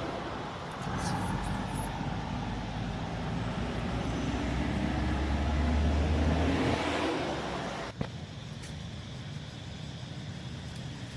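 A motor vehicle's engine running close by, growing louder for several seconds and then falling away, with a single sharp click about eight seconds in.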